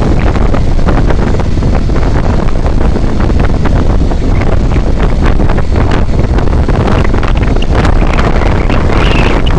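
Heavy wind buffeting the microphone of a moving vehicle, mixed with steady road and engine noise, with many small knocks and rattles throughout.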